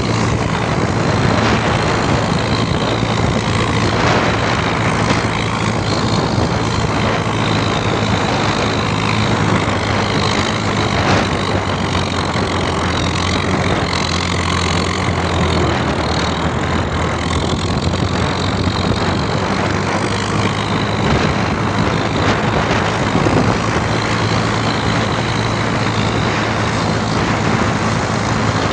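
Tractor engine running steadily, with a broad rushing wind noise over it.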